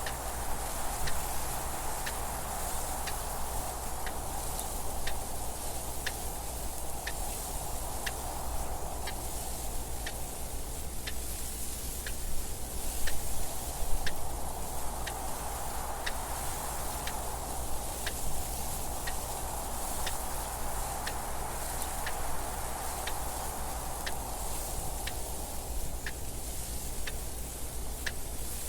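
Clock ticking at an even, steady pace over a soft wind hiss that slowly swells and fades every few seconds.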